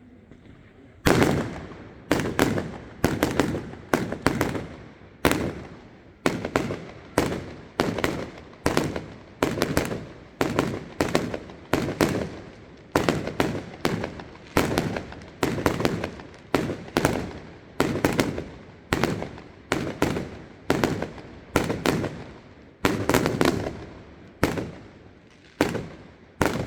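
Fireworks display: aerial shells bursting in a long, steady string of sharp bangs, about one to two a second, starting about a second in, each trailing off with a short echo.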